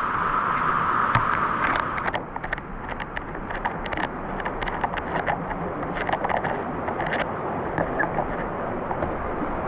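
Steady rush of falling water that eases about two seconds in, with scattered light ticks and taps over it.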